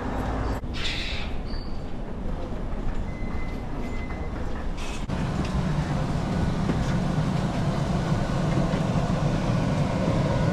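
Steady mechanical rumble and hiss, with an abrupt change about five seconds in, after which a deeper hum is louder.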